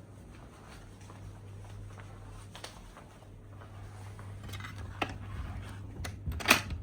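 A steady low hum with a few scattered clicks and knocks, the sharpest and loudest near the end.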